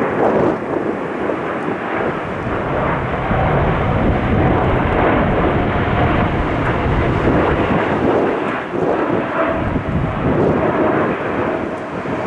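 Airliner engines running loud as an aircraft takes off or lands, with a faint steady whine through the middle and gusting wind rumbling on the microphone.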